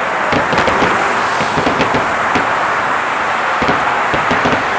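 Tail end of a fireworks finale: scattered crackles and pops, thickest in the first second or so, with a few more near the end. Underneath is the steady rush of freeway traffic.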